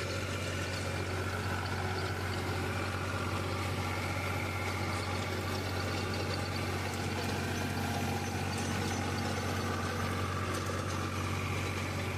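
Farmtrac XP 41 tractor's diesel engine running steadily at about 1900 rpm, driving an 8-foot rotavator.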